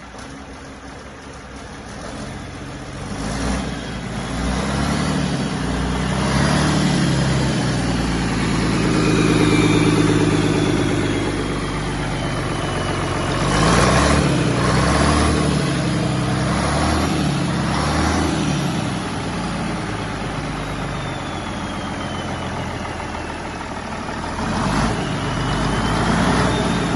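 Mack 675 237 hp inline-six diesel engine running on test, revved up and let back down several times between stretches at a lower speed, with a high whine gliding down after the revs.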